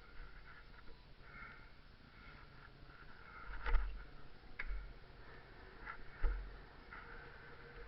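Faint, muffled rattling from a bike being ridden, with a few sharp clicks and three low thumps in the second half, as over bumps.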